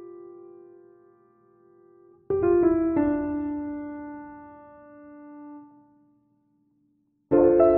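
Background piano music: slow, sustained chords that fade away. A new chord is struck about two seconds in, it dies to near silence, and another chord comes in near the end.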